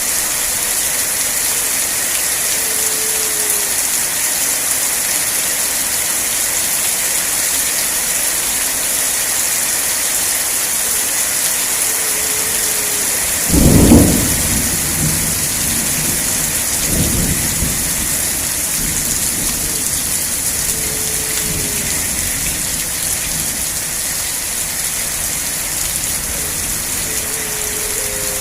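Steady rain falling, with a sudden clap of thunder about halfway through and a fainter rumble a few seconds after it.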